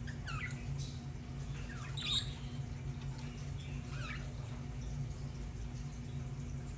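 Budgerigars chirping: three short, quick chirps, one near the start, one about two seconds in and one about four seconds in, over a steady low hum.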